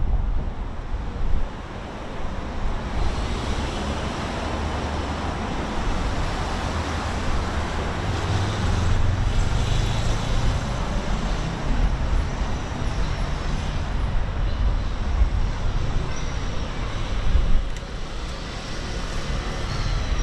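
Steady road traffic noise, with engine rumble swelling as a vehicle passes about eight to eleven seconds in.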